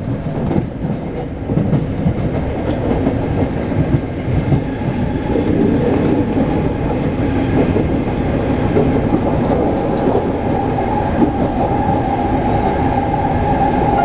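Taipei Metro C381 train running along the line: a steady rumble of wheels on rail, with a steady whine that comes in about halfway and holds.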